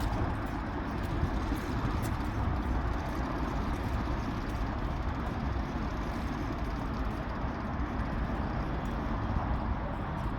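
Steady low rumble of a vehicle running, with no clear beat or rhythm.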